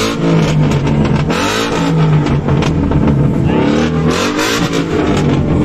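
Car engine being revved repeatedly, its pitch climbing and falling back about three times over a steady running note.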